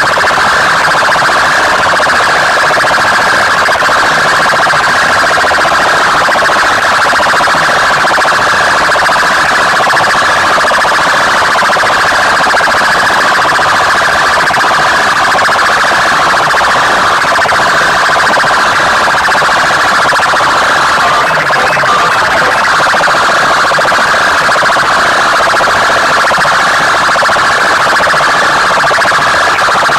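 Large sound-box loudspeakers at a sound competition blasting a very loud, steady blare with no breaks, pushed hard enough to overload the recording.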